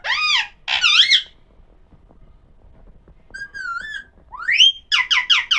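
Pahadi parrot (Alexandrine parakeet) calling: two loud wavering calls at the start, then after a pause of about two seconds a warbling whistle, a rising whistle, and a quick run of five short sharp notes near the end.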